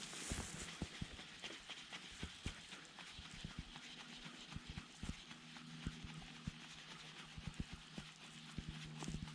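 Pedal kayak under way with its Hobie Mirage Drive 180 pedal drive: a run of light, irregular knocks and clicks from the drive and hull, over a faint steady low hum.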